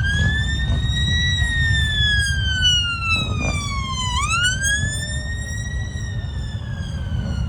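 Electronic siren in a slow wail, its pitch rising, falling over about three seconds and rising again, over a steady low rumble.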